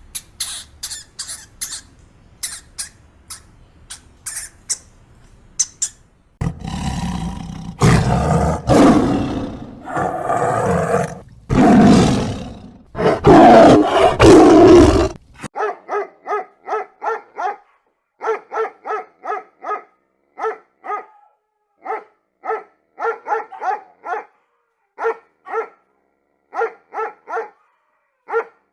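A big cat roaring and growling in several long, loud roars. These are preceded by a string of short, high chirps and squeaks, and followed by a long run of short, clipped calls in quick groups.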